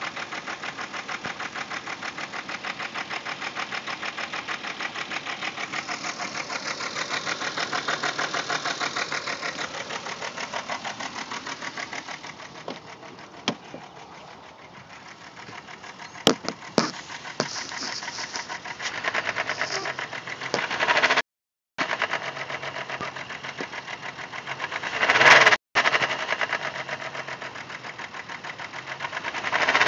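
Volkswagen 12-valve VR6 engine running with a fast, even ticking rattle, its speed rising briefly a few times in the second half. The owner can't say whether the noise comes from the valvetrain or the timing chain.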